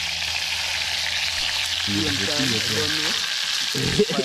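Chopped seasonings frying in hot oil in a pot over a wood fire: a steady sizzle, just after they were tipped in.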